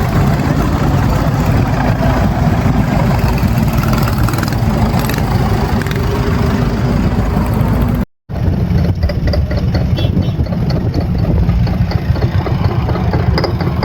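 Vehicle engines idling, loud and steady, with an abrupt break about eight seconds in, after which a similar engine sound picks up again.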